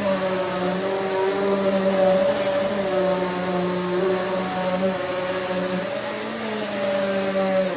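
Hoover Swivel XL Pet upright vacuum cleaner running steadily on carpet, its motor drone and high whine wavering slightly in pitch as it is pushed. At the very end it is switched off and begins to wind down.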